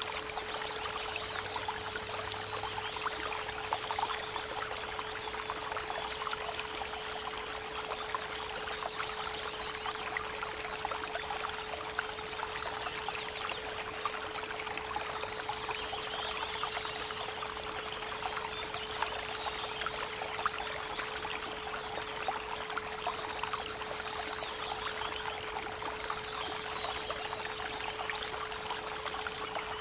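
Creek water running and trickling steadily, layered with a steady 432 Hz pure tone. Birds sing over it, with a short rapid trill about five seconds in and again about twenty-two seconds in.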